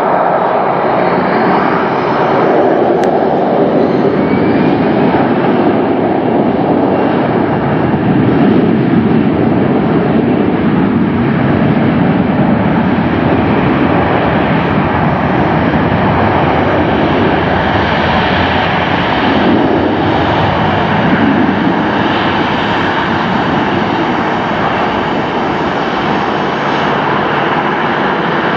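Jet airliner's engines at takeoff power, a loud steady roar with a faint rising whine in the first few seconds.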